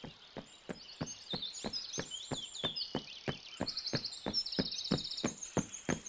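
Cartoon footstep sound effect: steady, even knocking steps about three a second. Birds chirp throughout, with a rapid trill around the middle.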